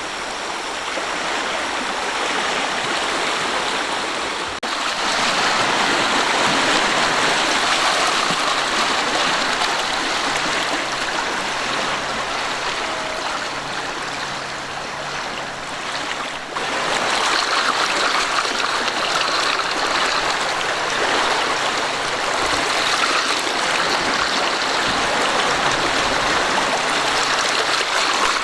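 A swollen river in flood, its water rushing steadily. The level jumps up abruptly about four and a half seconds in, and again about sixteen and a half seconds in.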